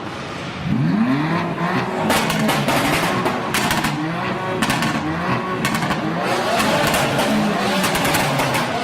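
A modified car's engine revving hard, its pitch sweeping up about a second in and then climbing and dropping again and again, with sharp cracks scattered through it.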